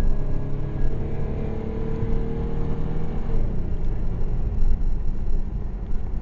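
Chevrolet Camaro engine running with a steady low rumble, with a faint whine during the first three seconds that rises slightly and then fades.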